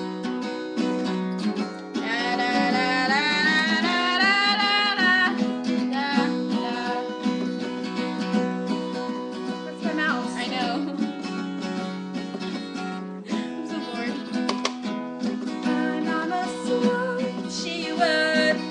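Acoustic guitar strummed steadily, with a wordless wavering voice singing over it a couple of seconds in.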